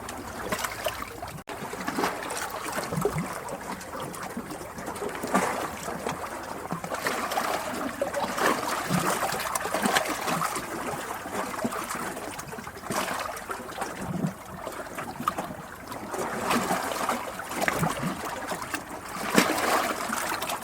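Flowing water trickling and splashing continuously, with many small splashes and a level that rises and falls unevenly.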